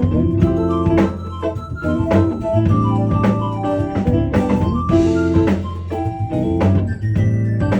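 Live band music: keyboard chords over a steady bass line and a drum beat.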